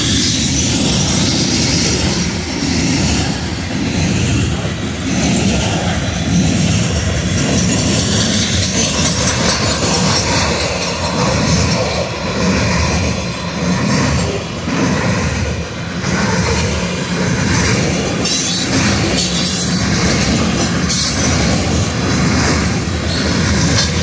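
Coal hopper cars of a long freight train rolling past: steel wheels rumbling steadily on the rails, with sharper clacks over the rail joints in the later part.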